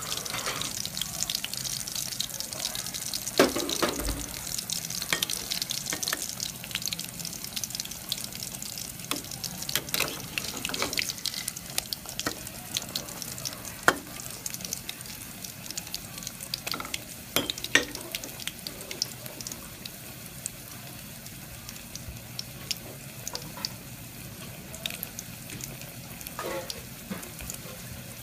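Fish-paste patty shallow-frying in hot oil in a steel wok: a steady sizzle with fine crackling pops, easing off gradually. A few sharp clicks of a spatula against the wok stand out above it.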